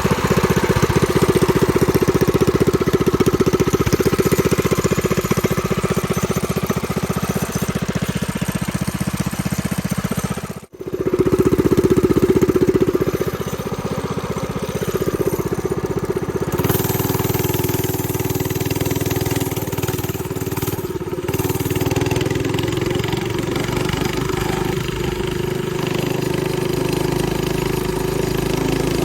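A mini bike's 212cc single-cylinder four-stroke engine running under a test ride. The pitch rises and falls as it is revved twice, then holds steady and higher for the second half. The sound drops out for a moment about eleven seconds in.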